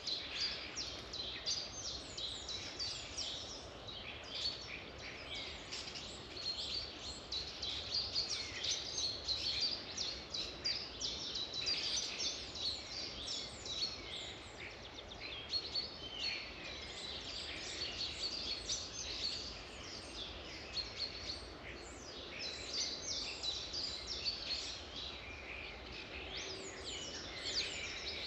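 A chorus of many songbirds singing and chirping at once, dense overlapping high chirps and trills without pause, over a faint steady background hush.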